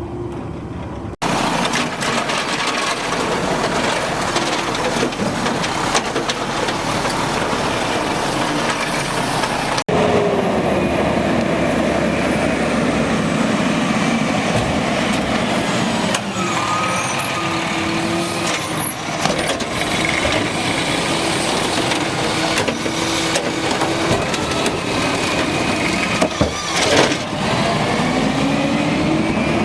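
Automated side-load garbage truck running, with rising and falling whines and short hisses of the kind an air brake makes. The sound changes abruptly about a second in and again about ten seconds in.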